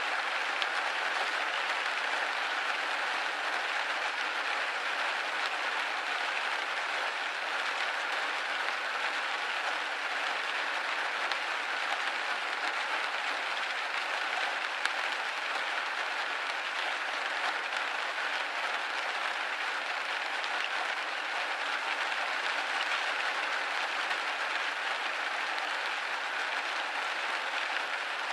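Steady rain pattering on a window pane: a dense, even hiss of drops with fine scattered ticks.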